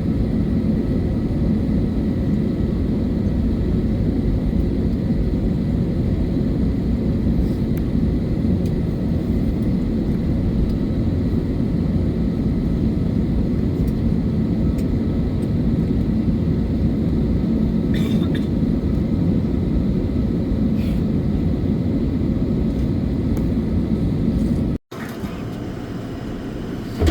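Steady low rumble in the cabin of an Airbus A321neo after landing: engine and air-conditioning noise while the airliner rolls toward the gate. It cuts off abruptly near the end, giving way to a quieter background.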